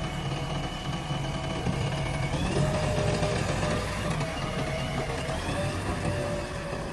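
JCB 3DX backhoe loader's diesel engine running steadily, with a high whine over it that shifts pitch slightly now and then.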